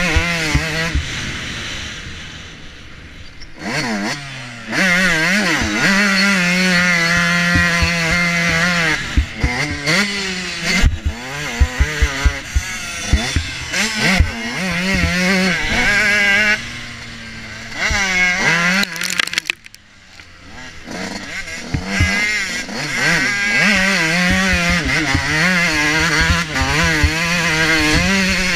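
Motocross bike engine heard onboard, revving up and easing off again and again as the throttle is worked, with short knocks and rattles from the bike. The engine drops back twice, once early on and again about two-thirds of the way through, before opening up again.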